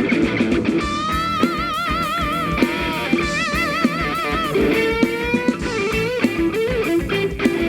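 A band playing an instrumental rock passage: an electric lead guitar plays long notes with a wide, fast vibrato over a steady drum beat and low bass notes.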